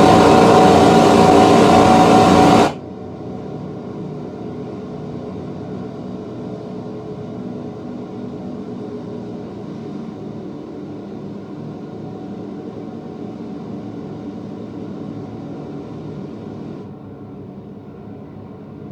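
A film soundtrack playing through Klipsch in-ceiling Dolby Atmos speakers: a steady, engine-like mechanical drone made of many layered pitched tones. It is loud at first, cuts down sharply about three seconds in to a quieter drone of the same kind, and eases off a little more near the end.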